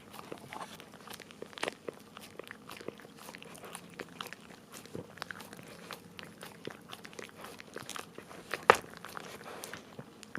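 A Cavalier King Charles Spaniel licking and smacking at a treat spread on a plastic bag laid over paint, with irregular wet clicks and plastic crinkles. One sharper, louder click comes about eight and a half seconds in.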